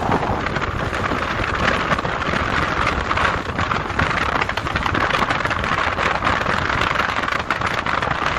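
Steady wind buffeting the microphone, a loud rushing noise over a low rumble.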